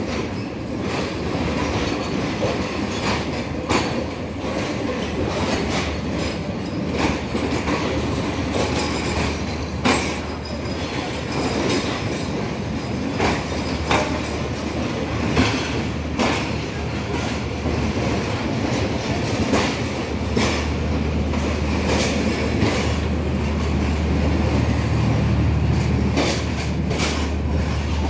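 Pakistan Railways passenger coaches rolling slowly past as the train pulls in, wheels knocking over rail joints every second or two over a continuous rumble. A steady low hum grows louder near the end as the generator power van draws level.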